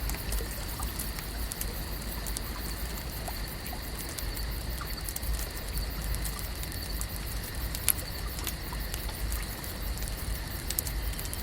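Lake ambience: a steady low rumble under a constant thin high whine, with small scattered crackles and clicks throughout and one sharper click about eight seconds in.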